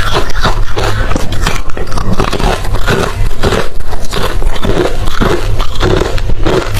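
Close-miked crunching and chewing of hard refrozen crushed ice: a dense, continuous run of sharp cracks as the ice is bitten and ground between the teeth.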